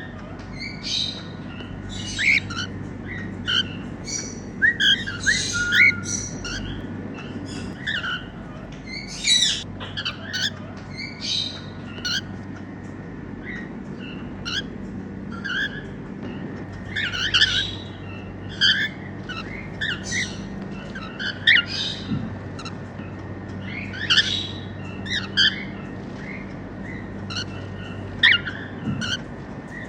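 Normal grey cockatiels, a male and a female, chirping and whistling in many short, separate calls, some sliding in pitch, scattered throughout over a steady low hum.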